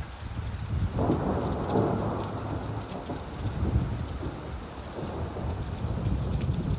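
Steady rainfall with a deep rumble of thunder that swells about a second in and keeps rolling on under the rain.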